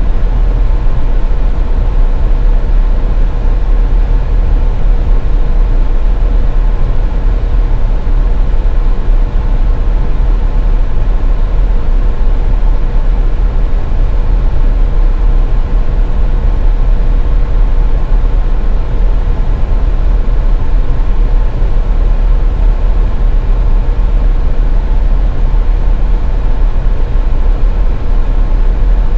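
Car driving at highway speed: a steady low rumble of tyres and engine, with a faint constant hum running through it.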